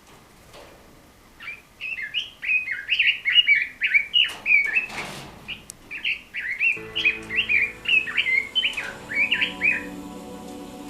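Red-billed leiothrix (Chinese nightingale) singing a fast, warbling song of quick rising and falling notes, starting about a second and a half in and stopping near the end. Soft background music with sustained tones comes in about two-thirds of the way through.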